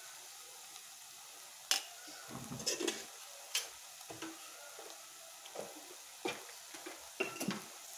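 Onion-tomato masala frying in a clay pot with a faint, steady sizzle, broken by a few scattered sharp clinks and knocks of kitchen utensils.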